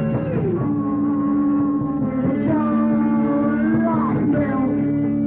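Live rock band playing. Guitar notes are held and then slide in pitch, with the band going underneath.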